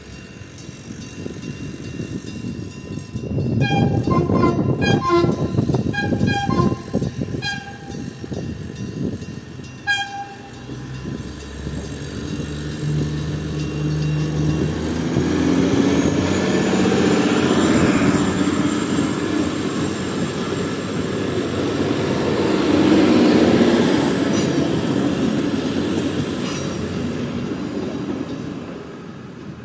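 Train horn sounding a quick string of short blasts, about two a second, with one more blast a few seconds later. Then the train passes with a loud rumbling of engine and wheels on the rails, swelling twice before it fades.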